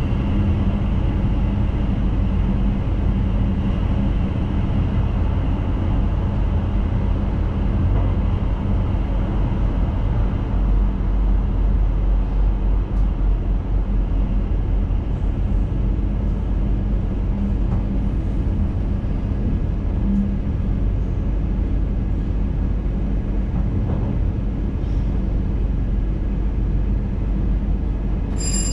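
Electric intercity train running along the track, heard from the driver's cab: a steady rumble with a faint low hum.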